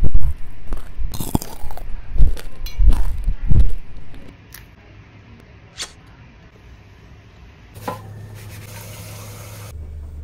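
Close-up chewing and mouth sounds of a person eating, a run of irregular low smacks and thuds with a few sharp clicks, stopping after about four seconds. A low steady hum sets in about eight seconds in.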